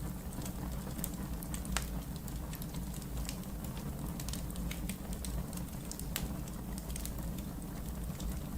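Wood fire crackling in a fireplace: sharp pops and snaps at irregular intervals over a steady low rumble of burning.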